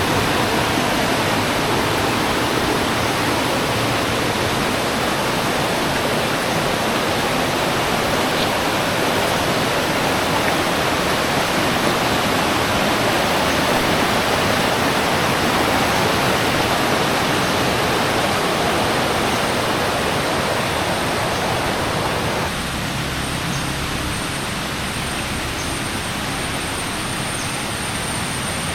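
Rushing river water, a steady loud hiss. About three-quarters of the way through it drops a little and sounds thinner.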